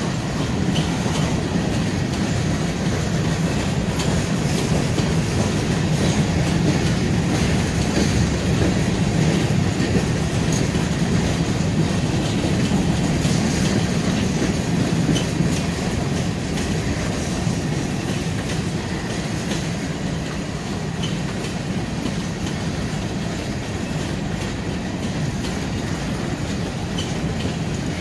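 Freight train of covered hopper cars rolling steadily past, a continuous low rumble with the clickety-clack of wheels over the rail joints.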